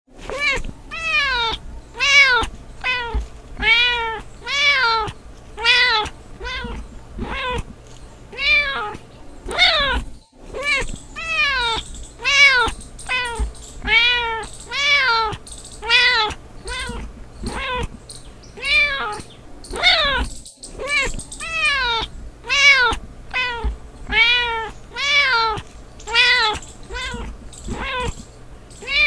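Domestic cat meowing over and over, about one to two short meows a second, each rising then falling in pitch.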